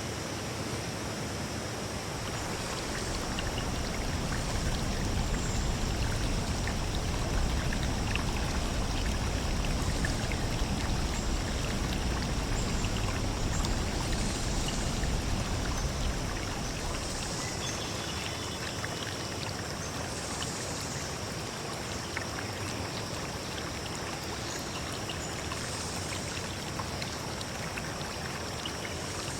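Running water, a steady stream-like rush, with a deeper, louder surge from a few seconds in until about halfway through, then easing. A thin, steady high-pitched hiss runs above it.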